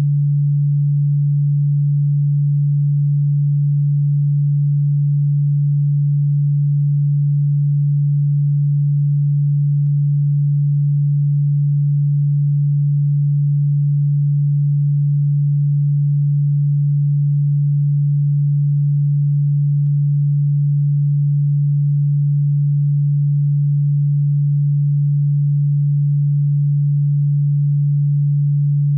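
A steady, low-pitched pure electronic sine tone, unchanging in pitch and loudness, played as a bug-repellent sound; despite being billed as ultrasonic, it sits low in the audible range.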